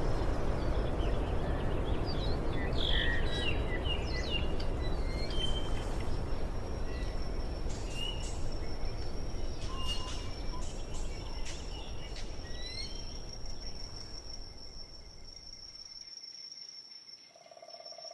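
Birds chirping in scattered short calls, with an insect's steady high-pitched trill starting about a third of the way in, over a low rushing noise that fades away near the end.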